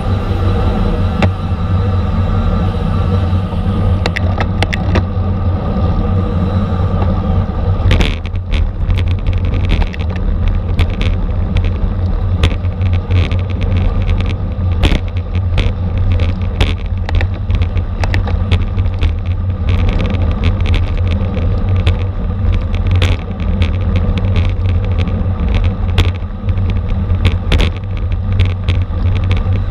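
Heavy wind and road rumble on a camera riding with a racing bicycle at speed, with a steady whirring hum for the first eight seconds or so, then many irregular clicks and rattles.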